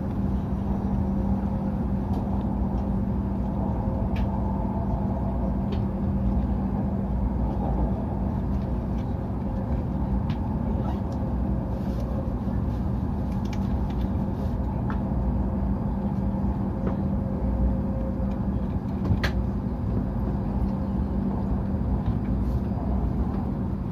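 Running noise of a Hokuriku Shinkansen E7/W7-series train, heard inside the passenger car: a steady low rumble with a constant hum and a few faint clicks.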